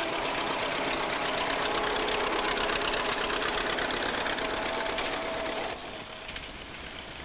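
Vintage tractor engine running as it pulls a reaper-binder, with the binder's cutting and tying mechanism clattering in a fast, even rattle. The sound drops to a quieter level about six seconds in.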